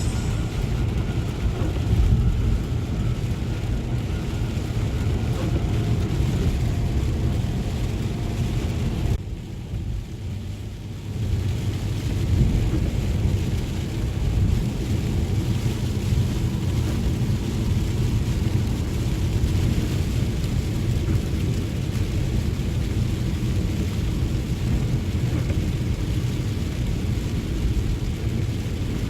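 Vehicle driving on a rainy night, with a steady rumble of engine and tyres and a wash of rain and road noise. The noise drops briefly about nine seconds in, then comes back.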